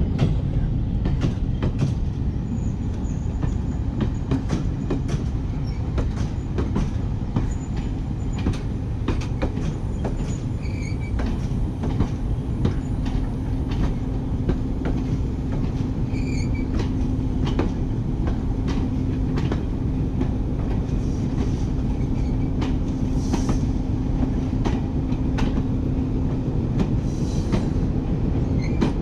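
Train rolling slowly into a station platform: a steady rumble with many clicks as the wheels cross rail joints. Brief wheel or brake squeals come about eleven and sixteen seconds in.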